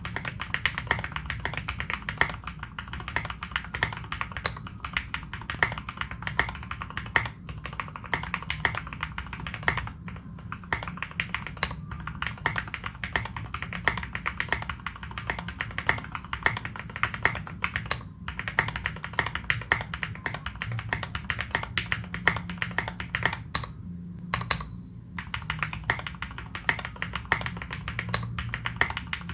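Continuous fast typing on a KBD75v2 custom 75% mechanical keyboard with modded Cherry Retooled Black linear switches, Domikey Dolch keycaps and tuned screw-in stabilizers: a dense, steady run of keystroke clacks, with short pauses about 24 and 25 seconds in.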